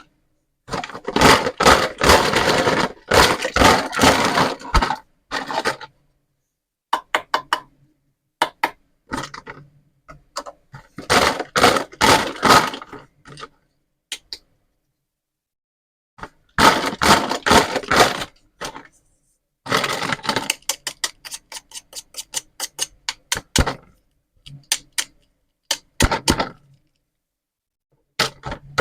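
Plastic toy pizza and vegetable play food being handled and pulled apart. Clusters of crackling, clicking and knocking, each lasting from a moment to a few seconds, with short silent gaps between them.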